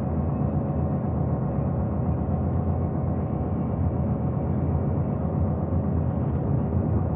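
Steady low drone of a truck's engine and tyres while driving.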